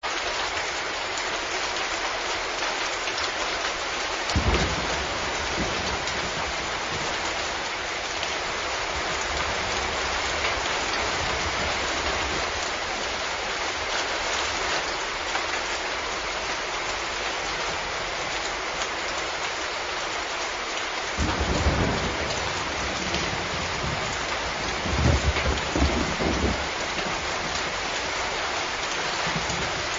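Steady rain hissing. There are low rumbles of thunder: a short one about four seconds in and two more, spread over several seconds, in the last third.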